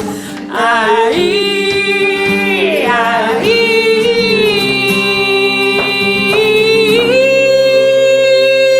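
A voice making an animal-noise imitation: long, steady held notes joined by short sliding glides, over a steady low chord.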